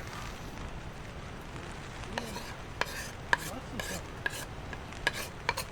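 A quick run of short scrapes and sharp clicks, starting about two seconds in, over a steady low rumble.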